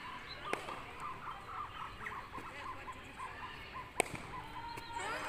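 Birds chirping in a quick series of short notes, with two sharp cracks, one about half a second in and a louder one about four seconds in.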